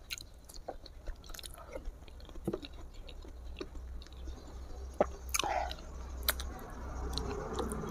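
A person chewing soft pumpkin with her mouth close to the microphone: irregular wet smacks and lip clicks. A short vocal glide comes a little after five seconds in.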